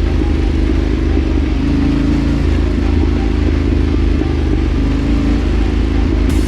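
Dual-sport motorcycle engine running steadily on the move, a continuous low drone whose pitch wavers slightly with the throttle.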